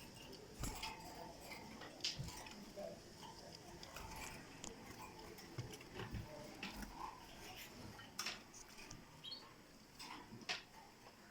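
A small pet bird bathing: scattered light clicks and taps, irregular across the whole stretch, with a few brief faint chirps.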